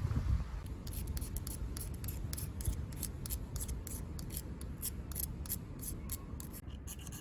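Campfire crackling: irregular sharp snaps and pops of burning wood, over a low rumble.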